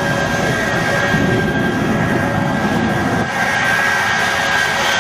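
Three Pratt & Whitney J34 jet engines of a jet-powered truck running, with a loud steady rush and a steady high whine.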